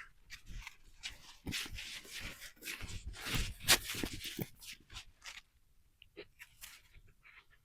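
Irregular crunching and rubbing sounds of steps on snow, loudest in the first half and fading off after about five seconds.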